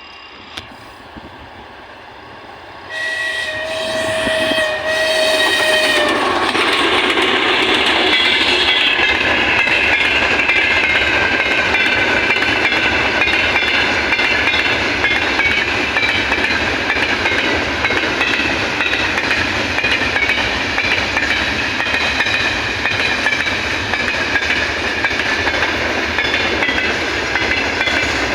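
2TE116 diesel locomotive sounding its horn for about three seconds, starting about three seconds in, then running past with its freight train in a loud, steady rumble and wheel clatter.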